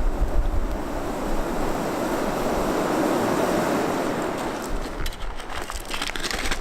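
Flowing river water: a steady rush, with wind buffeting the microphone at the start and a few sharp clicks near the end.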